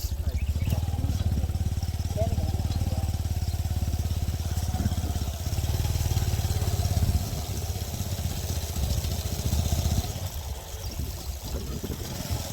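Motorcycle engine running while riding, a steady low rumble that eases off about seven seconds in.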